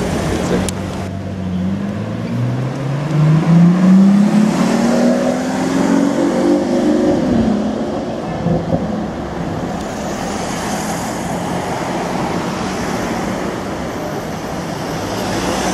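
A car engine accelerating away, its pitch rising steadily for about six seconds, then fading into steady street traffic noise.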